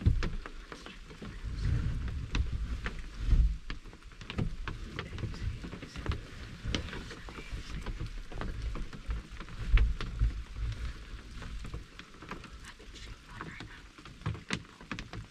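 Light rain pattering in scattered sharp ticks, with low rumbling thumps now and then.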